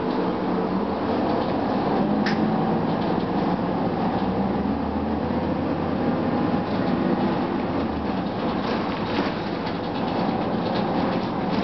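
Interior ride noise of a 2004 Gillig Phantom transit bus: its Cummins ISM diesel running and the HVAC on, under a steady rumble with frequent rattles and clicks from the body.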